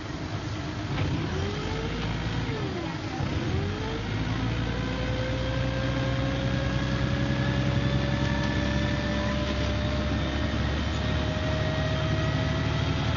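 MCW Metrobus double-decker bus under way: steady engine drone with a transmission whine that dips and rises about two to four seconds in, then climbs slowly and steadily as the bus gathers speed.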